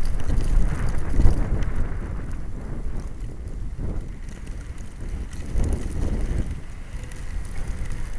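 Blizzard wind buffeting the microphone: a low rushing noise that swells and drops in gusts, strongest about a second in and again around six seconds.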